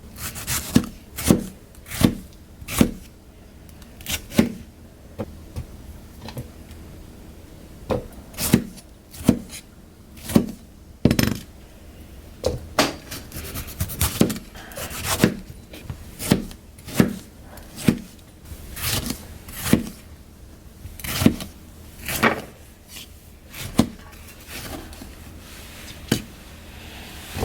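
Knife cutting food on a wooden cutting board: a long run of irregular chopping strokes about one a second, some with a short scrape.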